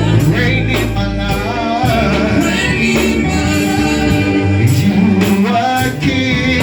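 Gospel worship song: singing over instrumental accompaniment with low, held bass notes.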